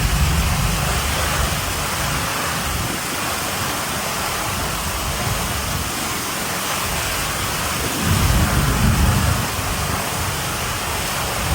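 Heavy rain pouring steadily, with low rumbling swells near the start and again about eight seconds in.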